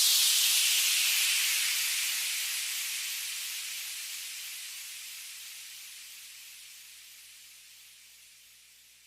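White-noise sweep ending an electronic dance track: a hiss that slides down at the start and then fades slowly and evenly away to silence.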